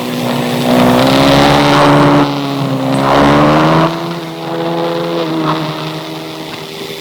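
Motorcycle engine running steadily while riding, its pitch rising a little about three seconds in and easing off after four, with surges of wind rushing past every second or two.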